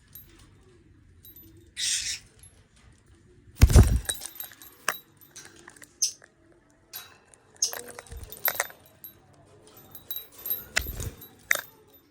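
Budgie cage and swing clinking and clicking, with a louder thump about four seconds in and a few short high chirps.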